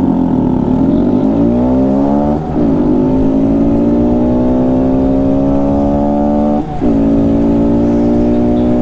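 Honda Monkey 125's single-cylinder engine, breathing through a Chimera short ram intake, accelerating hard from a standing start. Its pitch rises through first gear, then drops briefly at two upshifts, about two and a half and six and a half seconds in, and climbs again after each.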